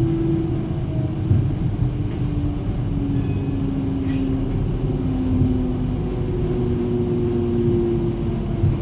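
Inside a Flexity low-floor tram on the move: a steady rumble of wheels on rail, with a motor hum that slowly slides down and back up in pitch as the tram's speed changes. Two faint clicks come about three and four seconds in.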